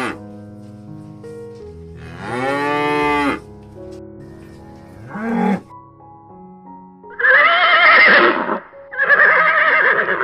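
Water buffalo lowing: one long call that falls in pitch, then a short call about five seconds in. Near the end come two louder horse whinnies with wavering pitch, over soft background music.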